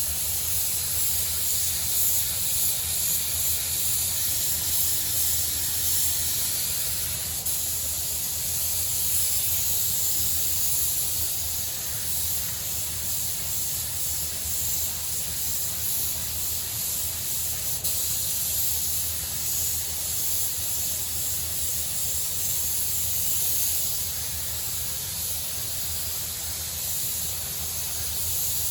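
Compressed-air paint spray gun hissing steadily while laying down a light, misted second coat of car paint, with a steady low hum underneath.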